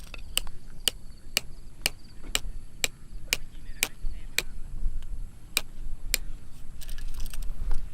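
Repeated sharp knocks, about two a second and around a dozen in all, like chopping or striking wood, stopping about six seconds in, followed by a brief rustle.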